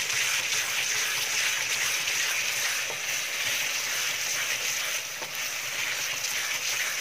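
Beetroot curry sizzling in oil in a kadai on a high gas flame, with a steady hiss, while a wooden spatula stirs it with light scrapes against the pan.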